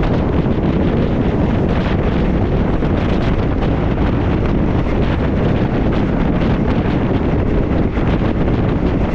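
Steady wind rush buffeting the microphone held at the window of a moving passenger train, with the train's running noise underneath.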